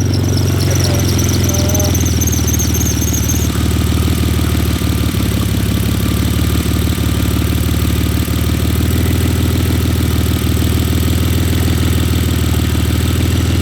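BMW E46 engine running steadily with a pulsing low note and a misfire, which the owner puts down to either a bad injector or bad wiring. A high warbling squeal sounds over it for the first few seconds, then stops.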